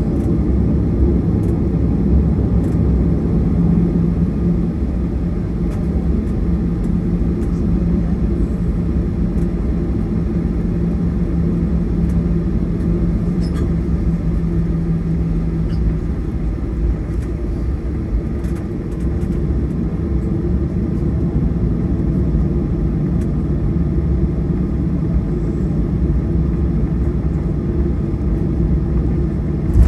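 Boeing 737-800's CFM56-7B turbofan engines running steadily at low power, heard as a deep rumble inside the rear cabin. A steady hum over the rumble fades out about halfway through.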